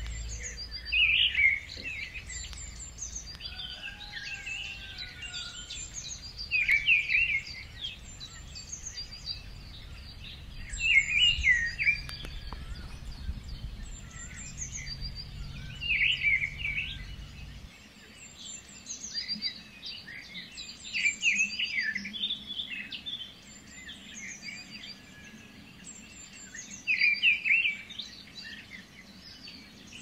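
Forest birds calling: a loud call phrase comes back about every five seconds, over many thin, high chirps throughout. A low rumble underneath stops a little over halfway through.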